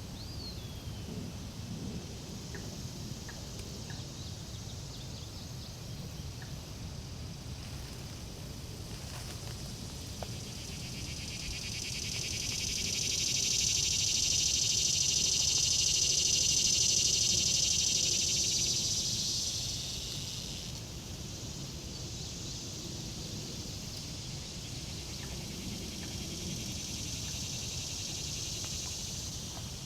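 A high, pulsing insect chorus swells up for several seconds in the middle and then drops away fairly quickly, coming back more faintly near the end, over a steady low rumble.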